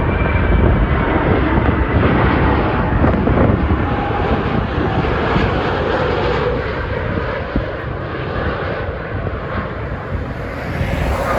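Jet noise from a landing Airbus A380-861 and its four Engine Alliance GP7270 turbofans: a steady deep rumble with a faint whine over it, easing slightly about seven seconds in.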